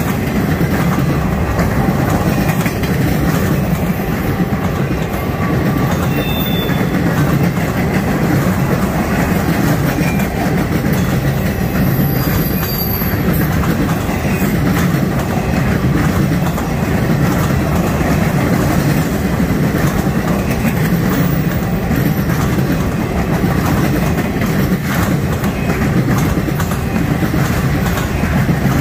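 Freight train cars rolling past on the track: a steady, loud rumble of steel wheels on rail with a continuous clatter of clicks.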